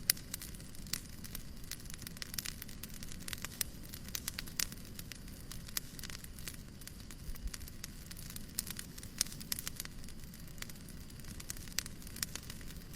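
Fireplace crackling: irregular sharp pops and snaps from burning wood over a low, steady rumble of the fire.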